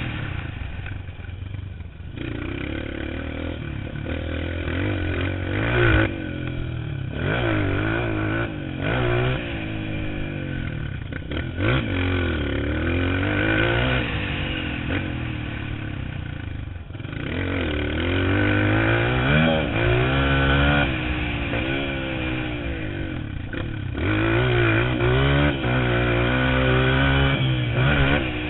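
Motocross dirt bike engine at racing throttle, its pitch climbing and dropping back again and again as the rider opens and closes the throttle and shifts gears.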